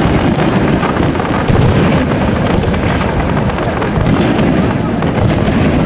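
Fireworks display: a dense, continuous barrage of overlapping bangs and booms, with slightly louder hits about a second and a half in and again near four seconds.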